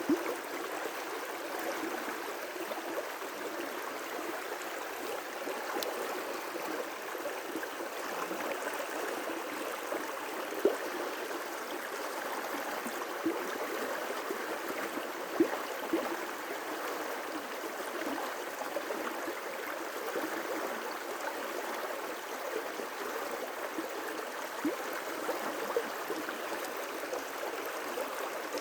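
River rapids: water rushing steadily over rocks, with a few brief louder splashes and gurgles.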